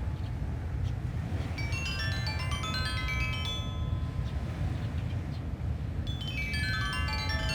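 Sanukite stone xylophone played in quick downward runs of ringing, bell-like notes in a pentatonic scale: one run about two seconds in and another starting near the end. Under it, steady low wind noise from the beach.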